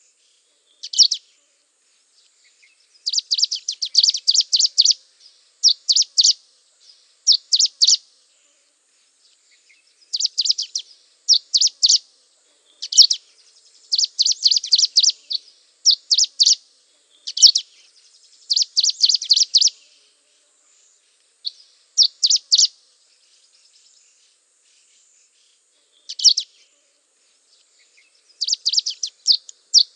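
Small birds chirping: high, rapid twittering trills in short bursts every second or so, with silent gaps between them.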